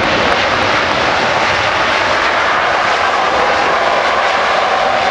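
Airbus A380's four jet engines running loud and steady close by, as a dense roar, with a whine coming up out of the noise near the end.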